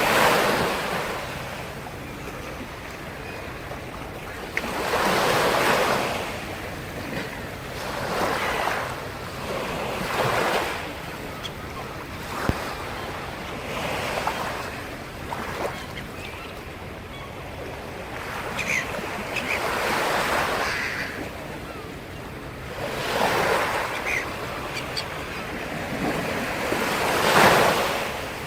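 Sea surf: waves breaking and washing in, the rush of water swelling and fading every few seconds, about eight surges in all.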